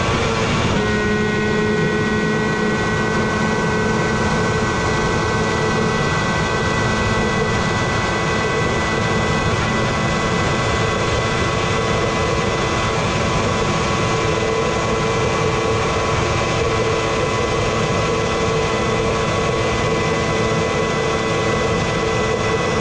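Honda CBR1000RR-R's inline-four engine running at steady high revs, its note held almost unchanged for many seconds over a steady rush of noise. There is a brief break in the note less than a second in.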